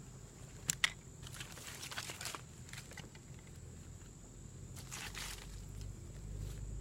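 Pine kindling catching in a fire pit, crackling and snapping, with two sharp pops about a second in and scattered smaller crackles after. A low rumble builds near the end.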